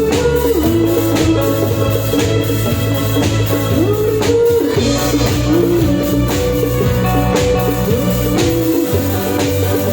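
A band playing live music: a drum kit keeping a regular beat over a steady bass, with a lead melody that slides up and down in pitch.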